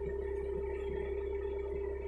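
Hitachi mini excavator running steadily, a constant drone with one strong, unchanging tone and a low hum beneath it.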